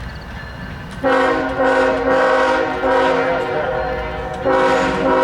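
Union Pacific diesel locomotive's multi-tone air horn blowing, a long blast starting suddenly about a second in, then a second blast near the end, over the low rumble of the engine.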